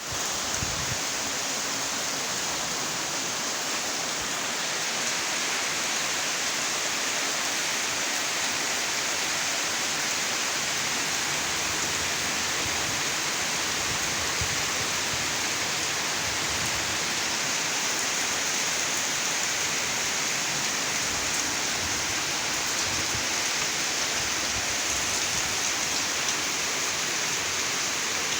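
Steady rainfall, an even hiss of many drops with no breaks.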